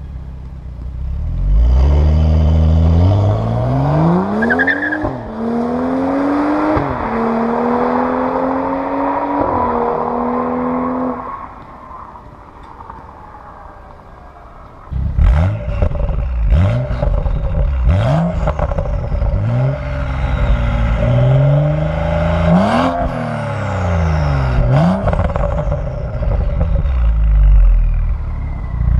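BMW M135i engine, fitted with a catless downpipe and an aftermarket intake, accelerating hard. Its pitch climbs through several gears, dropping back at each shift. The engine then eases off to a quieter hum for a few seconds before pulling hard through the gears again, with sharp clicks and pops mixed in.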